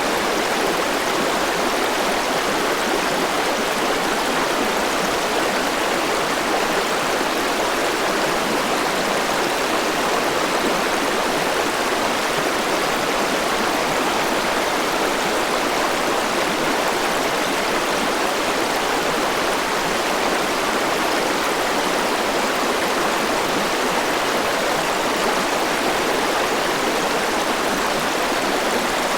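Forest river flowing over rocks, a steady rushing of water without change.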